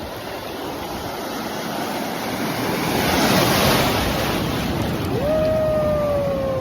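Ocean surf: waves breaking and washing on a beach, the rush swelling to its loudest near the middle. About five seconds in, a steady held tone enters and slides slowly down in pitch over the wash.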